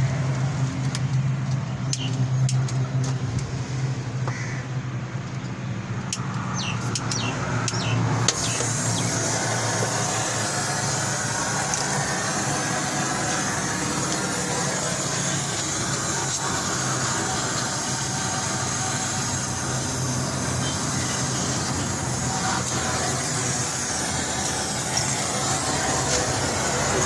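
Car engine running steadily with a low hum, heard from beneath the car. About eight seconds in, a steady hiss joins it and holds at an even level.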